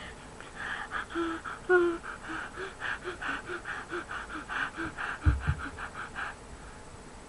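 A person gasping and sobbing in quick breathy bursts, about three a second, some with a little voice in them, stopping about a second before the end. A brief low thump on the microphone comes near the end.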